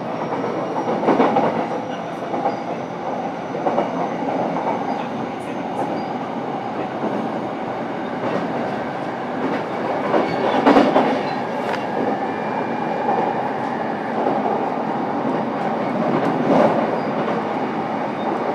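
Interior running noise of a JR East E233-7000 series electric train, heard inside a motor car while running at speed: a steady rumble of wheels on rail, broken every few seconds by sharp clacks over rail joints.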